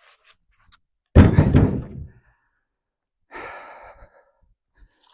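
A heavy log landing with a loud thud about a second in, followed a couple of seconds later by a breathy exhale from the effort of lifting.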